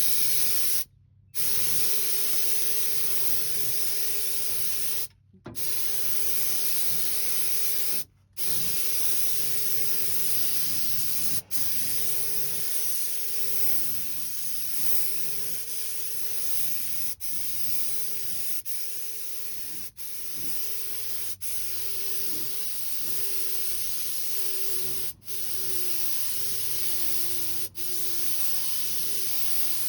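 Inexpensive compressed-air paint spray gun hissing steadily as paint is sprayed, cut off briefly several times as the trigger is let go. A steady hum that wavers in pitch near the end runs beneath it.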